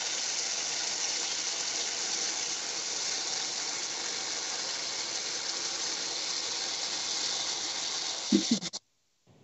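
Chopped tomatoes and capsicum frying in oil in a pan, a steady sizzling hiss that cuts off abruptly near the end.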